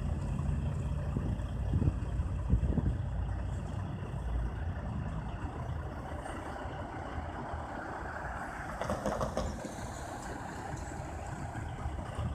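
Heavy truck engine running at a steady low rumble, with a couple of short knocks about two seconds in and a brief louder, hissy burst about nine seconds in.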